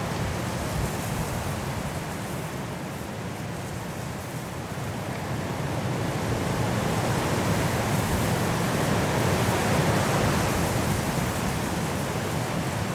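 High wind blowing through trees in a snowstorm: a steady rushing that eases a few seconds in, then builds to a stronger gust later on.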